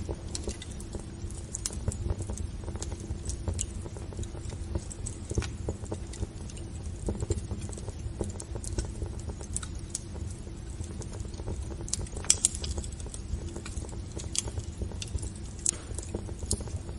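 Wood fire burning in a fireplace: irregular crackles and pops over a steady low rumble, with a short run of louder pops about twelve seconds in.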